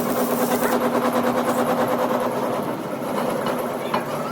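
A machine running steadily: a constant hum with a fast, even rattle, and a couple of light clicks near the end.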